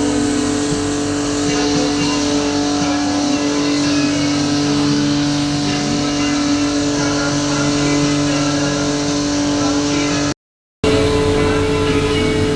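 Steady motor hum with a continuous rushing noise, broken by a half-second dropout about ten seconds in.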